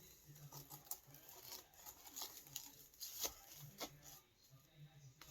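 Faint rustling and crinkling of paper being handled, with a few sharper paper clicks, the clearest about three seconds in.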